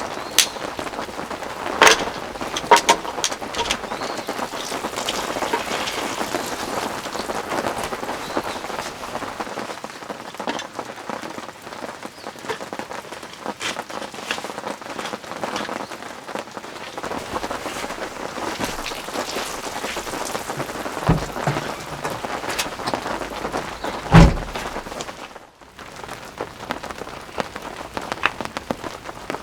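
Steady rain falling, with many separate drops striking close by over the constant hiss of the downpour. A single heavier dull thump comes near the end.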